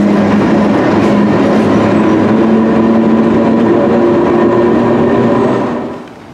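London Underground battery-locomotive-hauled engineering train running past on the rails: a loud, steady rolling rumble with several steady whining tones over it. It cuts off suddenly near the end.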